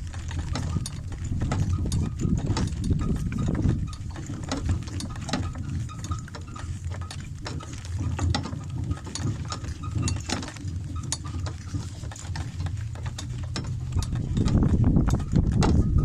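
Wind rumbling on the microphone, with many scattered light clicks and knocks over it. The rumble eases through the middle and picks up again near the end.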